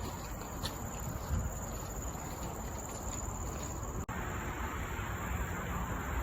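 Insects in the forest giving a steady, high-pitched drone over a low rumble of background noise, which cuts out for an instant about four seconds in.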